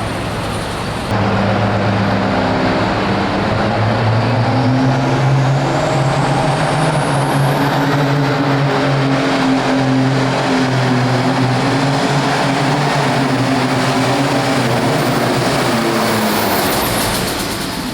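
Hot farm tractor's heavily modified diesel engine running hard at full throttle on a pull, loud and steady. A thin high whine climbs in pitch over several seconds, and the engine sound drops away near the end.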